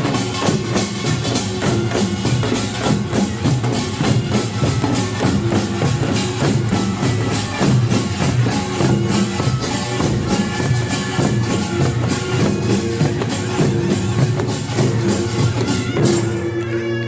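Korean pungmul percussion band, kkwaenggwari small gongs, janggu and buk drums and jing gong, playing a fast driving rhythm together. The beating stops short about a second before the end, leaving a ringing tone.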